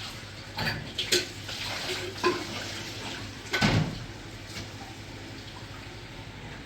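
Water splashing with four sharp knocks of hard objects, the loudest near the middle, then a softer steady wash of water.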